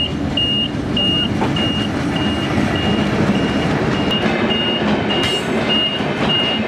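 Passenger train passing close by, a steady rumble and clatter of its wheels on the rails. Over it, a high electronic warning beep repeats about every half second.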